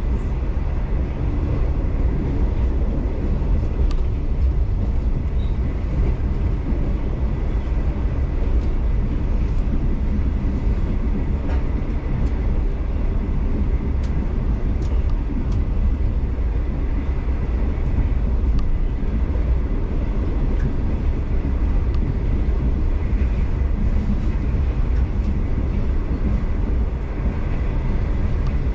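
V/Line passenger train running along the line: a steady low rumble of wheels and running gear on the rails, with a few faint clicks, heard from inside the carriage.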